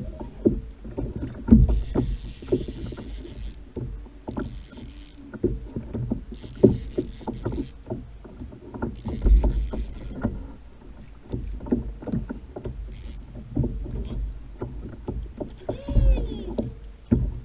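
Hollow knocks and bumps on a Hobie fishing kayak's hull, with about five bursts of high whirring, each around a second long.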